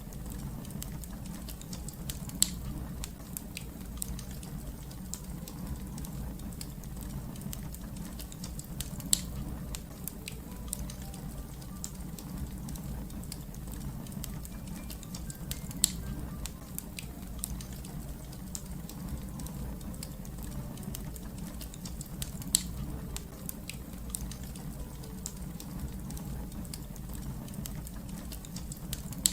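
Fire crackling steadily: a low, even rumble with many small crackles, and a sharp, louder pop about every seven seconds, four in all.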